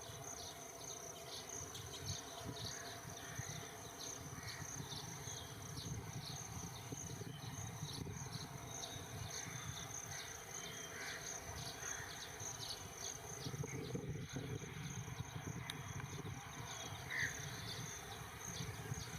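Insects chirping steadily in a rapid high-pitched pulsing, over a faint low rumble.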